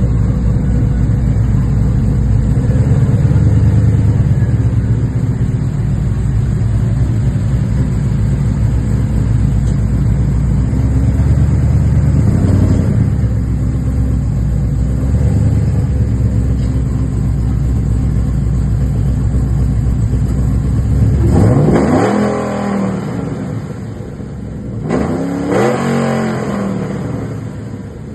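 Vehicle engine running with a steady low rumble, then revving up twice near the end, its pitch rising each time.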